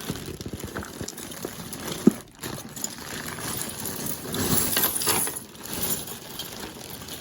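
A tangled pile of costume jewelry clinking and rattling as it is pulled apart by hand, with one sharp clack about two seconds in.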